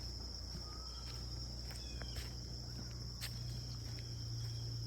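Steady high-pitched chorus of crickets or similar noisy insects over a low steady hum, with scattered footstep clicks and a few short bird chirps.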